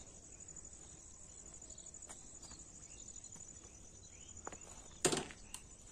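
Insects chirring in a faint, steady, high-pitched drone, with one short sharp click about five seconds in.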